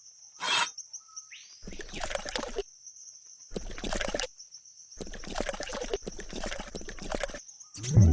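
A steady high insect buzz, like crickets, runs throughout. Three bursts of rough scraping and clattering noise break over it, each lasting about a second to two and a half seconds.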